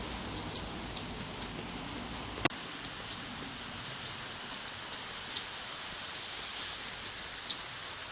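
Steady rain falling, with frequent sharp drips of water landing close by; one louder click about two and a half seconds in.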